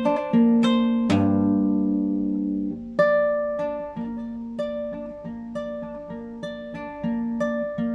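Classical guitar played solo, improvised: plucked single notes, with a low note struck about a second in that rings for nearly two seconds, then an even run of picked notes.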